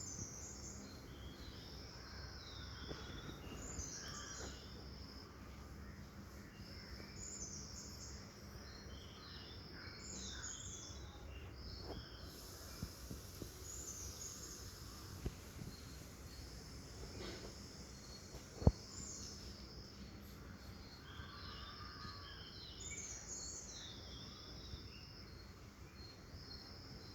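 Outdoor morning ambience of birds calling over and over, short high chirps and warbling phrases with held whistled notes, over a faint steady hum. A single sharp click sounds about two-thirds of the way through.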